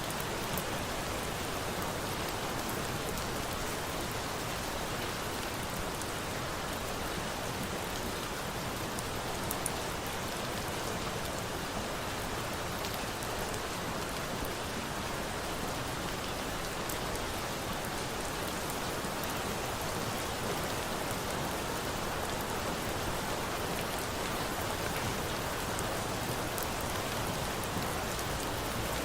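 Steady rain falling, an even unbroken hiss, with a few sharp crackles of a wood fire scattered through it.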